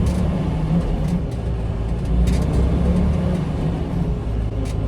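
Semi-truck cab noise while driving: a steady low diesel engine drone and road rumble, with a few light clicks and rattles.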